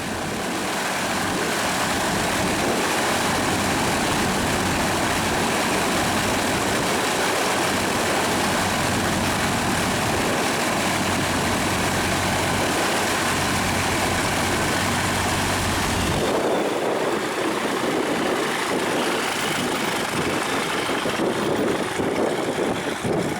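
Light propeller aircraft's engine running close by, loud and steady. About two-thirds of the way through its low steady note drops away, leaving a rougher rushing sound.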